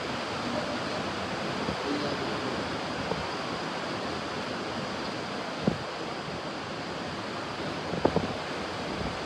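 Ocean surf washing in a steady rush, with wind on the microphone. A short knock comes a little past halfway, and two more knocks follow close together about eight seconds in.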